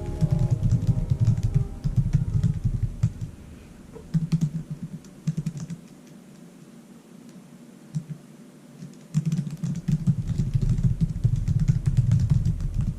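Rapid typing on a computer keyboard, a run of quick key clicks that pauses for a few seconds midway and then picks up again.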